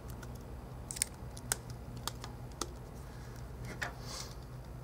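A handful of small, sharp plastic-and-metal clicks and taps, spaced irregularly, as an iPhone 4 logic board is fitted into its frame and hooked under its tab, over a steady low hum.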